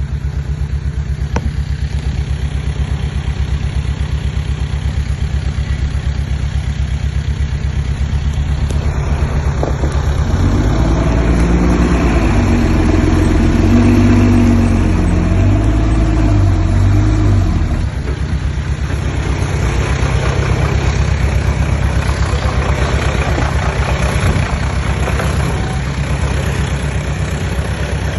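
Diesel engine of a small crawler bulldozer running steadily, with a louder stretch from about ten to eighteen seconds in where the engine pitch rises and shifts as it revs under load.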